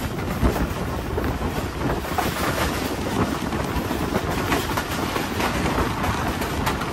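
Passenger train running at speed, a steady rumble of the wheels and carriage, with wind buffeting the microphone.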